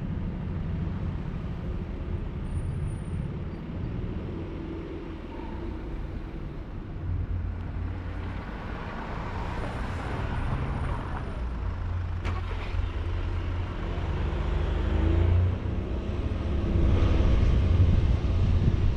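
A motor vehicle driving, heard from on board: a steady low engine and road rumble that swells and eases, with one sharp click about twelve seconds in.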